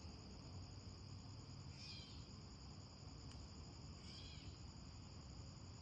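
Faint nature ambience: a steady high insect trill, with a short animal call heard twice, about two seconds apart.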